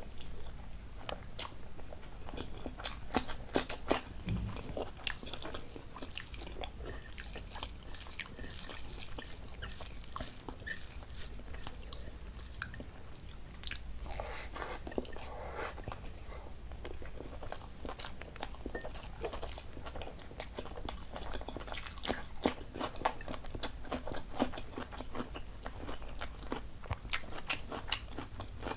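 A person chewing and biting food close to the microphone, with many irregular crunches and mouth clicks.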